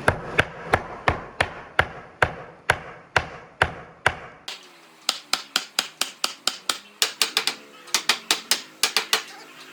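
Hammering in woodworking: a steady run of sharp blows, about two or three a second, then, after a sudden change about halfway, quicker and lighter blows of about four a second.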